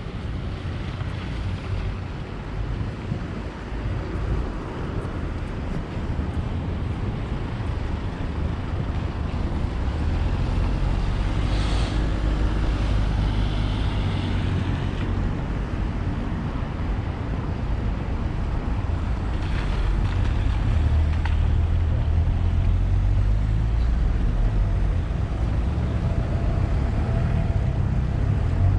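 Outdoor walking ambience dominated by a steady low rumble of wind buffeting the microphone, with a distant hum beneath it; brief hissing swells come about twelve seconds in and again around twenty seconds.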